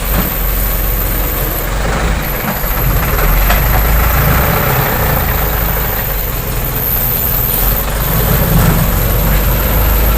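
Heavy diesel engine of construction machinery running under load, a steady low rumble that swells louder twice.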